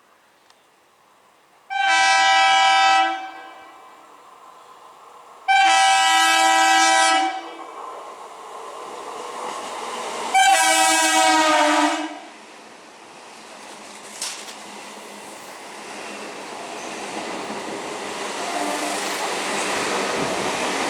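Train horn sounding three long blasts a few seconds apart, the third dropping in pitch as it ends, followed by the rumble of the approaching train growing steadily louder.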